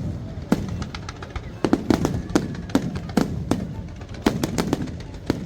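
Aerial fireworks bursting: an irregular series of sharp bangs, roughly a dozen, over a continuous low rumble of further explosions.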